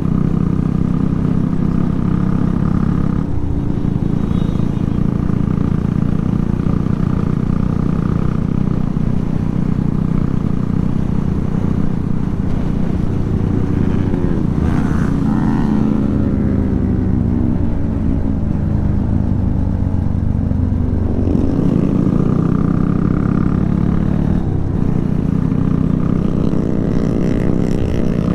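Motorcycle engine running under way, its pitch sweeping down and back up around the middle and climbing again near the end.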